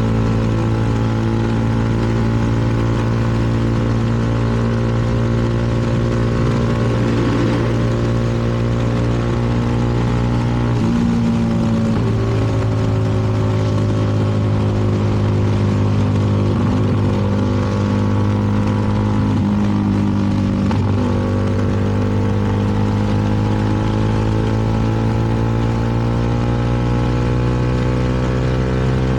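CFMoto 300NK single-cylinder motorcycle engine running at cruising speed, with wind noise over it. The engine note shifts briefly about eleven, seventeen and twenty seconds in, then climbs gradually in pitch near the end.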